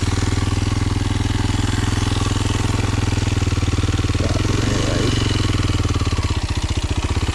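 Kawasaki KLX230's single-cylinder four-stroke engine running at a steady, even pitch as the dual-sport bike is ridden along the trail.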